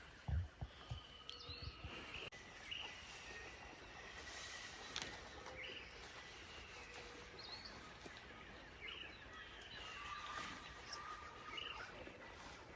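Faint night-time Amazon rainforest chorus. A short call gliding downward in pitch repeats about every two seconds over a steady background hiss of other animal calls. A few soft thumps come in the first second.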